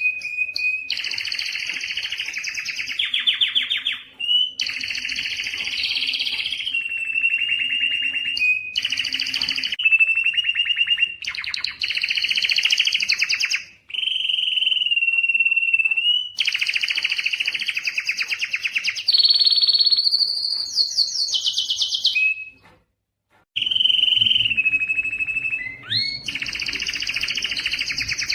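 Male Spanish timbrado canary singing a continuous song of rapid rolling trills and held whistled notes, changing phrase every second or two, with a brief pause about three-quarters of the way through.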